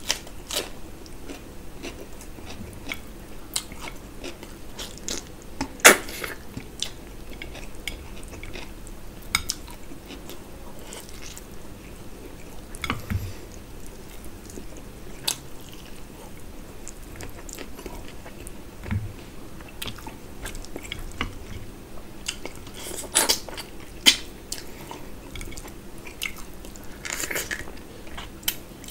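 A person chewing and biting mouthfuls of mutton curry and rice eaten by hand, with wet mouth sounds and scattered sharp clicks and crunches. The loudest come about six seconds in and again around twenty-three to twenty-four seconds in.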